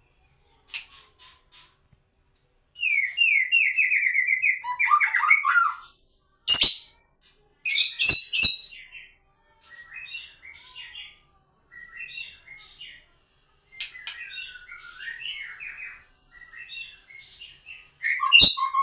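White-rumped shama (murai batu) singing varied phrases: a run of quick repeated descending notes, then pauses and shorter warbled phrases, with a few sharp clicks in between.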